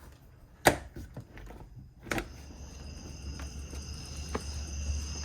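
A sharp knock, then a click about two seconds in, after which a steady high-pitched chorus of crickets sets in over a low rumble that slowly grows louder.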